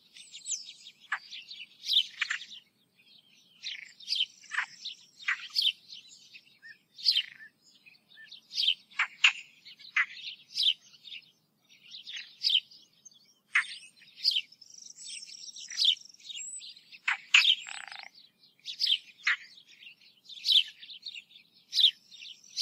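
Small birds chirping and singing: a continuous string of short, high calls, many sweeping quickly downward.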